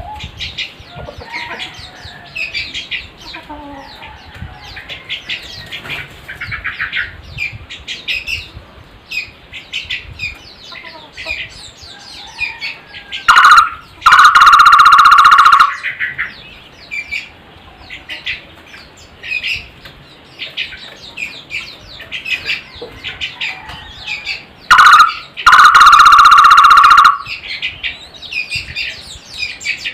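Takur tohtor (flame-fronted barbet) calling twice, each a loud, fast pulsing trill lasting about two seconds and introduced by a short note. Smaller birds chirp quickly and continually underneath.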